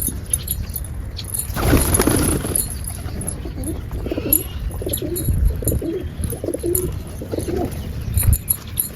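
Pigeons cooing in a run of repeated low calls. There is a short burst of noise about two seconds in.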